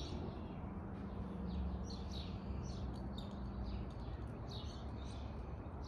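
Small birds chirping, many short high calls scattered throughout, over a faint steady low hum that stops about two-thirds of the way through.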